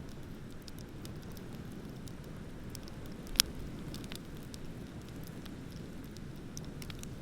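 Wood bonfire crackling with scattered small pops and one sharp, much louder pop about halfway through, over a steady low rush.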